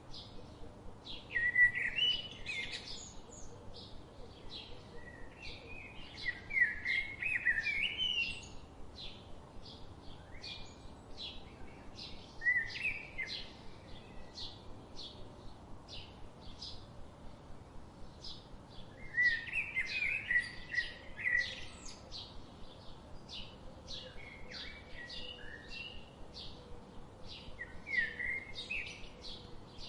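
Songbirds chirping: a steady series of short, high chirps several times a second, with louder warbling song phrases breaking in every few seconds.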